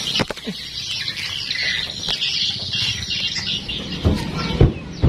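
Birds chirping steadily in the background, with a few sharp clicks just after the start and two low thumps about four seconds in.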